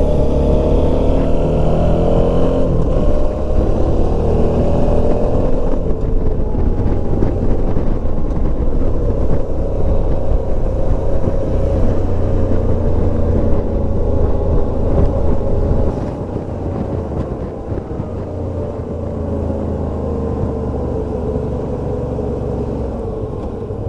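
Motorcycle engine running while under way, its pitch rising and falling with the throttle, over rushing wind noise. The sound becomes quieter about two-thirds of the way through.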